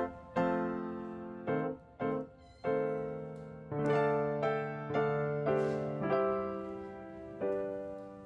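Background piano music: a slow melody of single notes and chords, each ringing and fading.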